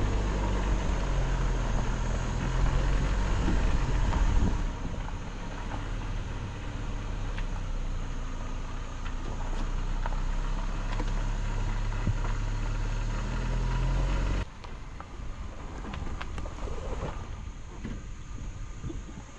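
An engine running steadily with a low hum and wind-like noise, the sound changing abruptly about five seconds in and again near fifteen seconds in.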